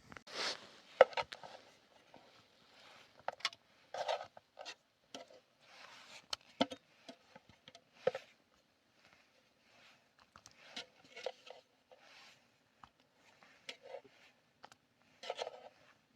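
Irregular handling sounds: short knocks and clicks mixed with scraping and rubbing, every second or so.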